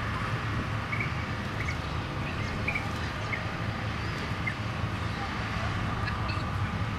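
Short, high bird chirps scattered irregularly through open-air park ambience, over a steady low hum.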